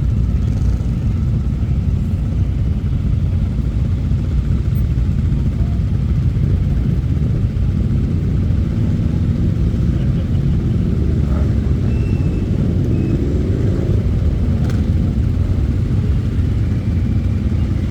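Motorcycle engines running as a loud, steady low rumble, with one engine revving up, rising in pitch about twelve seconds in.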